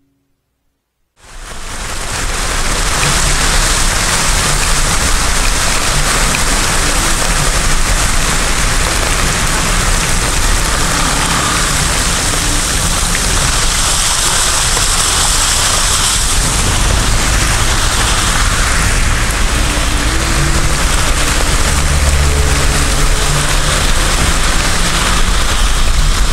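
Heavy rain drumming steadily on a car's roof and windscreen, heard from inside the cabin, over a low rumble from the moving car. It fades in about a second in.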